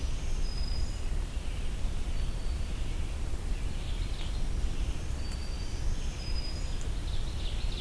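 Woodland birdsong: a red-eyed vireo singing short phrases at intervals in the background, with a few brief thin high whistled notes from other birds, over a low steady rumble.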